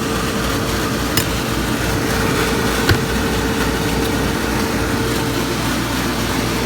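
CO2 laser's exhaust fan and air-assist compressor running steadily inside a toolbox enclosure: a continuous hum with a held mid-pitched tone over a pulsing low rumble. A light click about a second in and a sharper knock about three seconds in.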